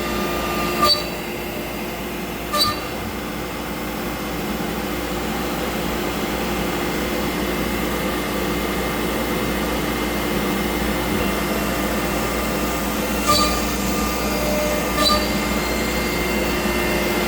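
AltMill CNC router spindle running steadily as it mills out the inside corners of a cabinet-door pocket, cutting the corner radius tighter. Four short, sharp chirps stand out: two in the first few seconds and two more near the end.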